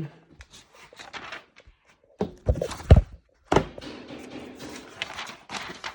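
Handling noises: faint clicks, then a heavy thud about two and a half to three seconds in and a sharp knock just after, followed by a steady rustling.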